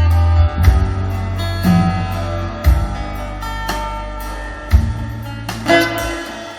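Live band playing an instrumental passage of a song: plucked guitar notes over deep held bass notes that change every couple of seconds, with no singing.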